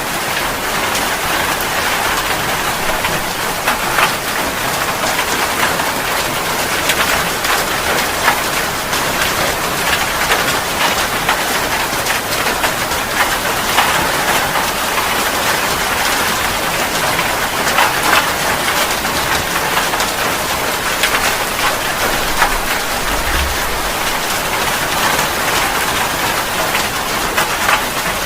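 Steady rain falling on surfaces: a dense, even hiss flecked with many sharp individual drop hits.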